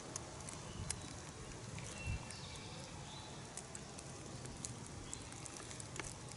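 Woodland ambience: faint short bird chirps and scattered small clicks and rustles, with a low thump about two seconds in.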